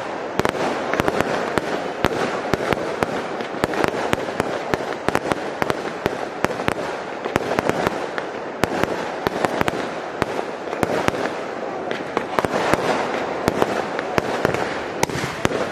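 Dense fireworks barrage: rapid, overlapping cracks and pops that run on without a break.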